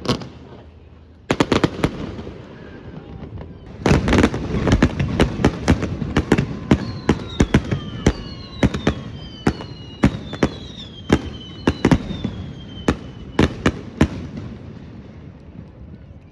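Fireworks display: a rapid run of sharp bangs, growing dense from about four seconds in, with several falling whistles in the middle.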